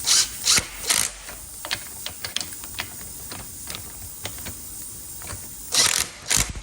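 Power wrench gun run in short trigger bursts to tighten bolts on a motorcycle front brake assembly: three quick bursts at the start and more near the end, with scattered small clicks in between.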